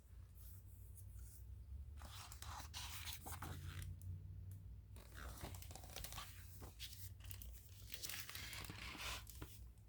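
Faint rustling and scraping of paper as the pages of a picture book are handled and turned, in short irregular bursts.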